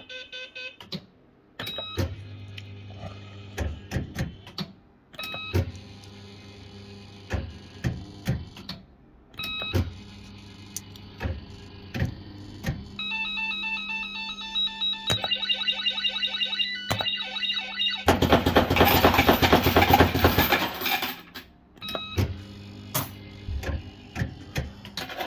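Bell-Fruit FireCracker fruit machine in play: sharp clicks, a steady electronic hum, and runs of bleeping tones at several pitches. About eighteen seconds in comes a loud rattling burst lasting about two seconds.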